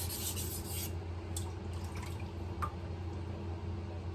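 Knife blade rasping on a wet 800-grit Cerax whetstone in sharpening strokes, stopping about a second in. After that come a few faint clicks and drips over a steady low hum.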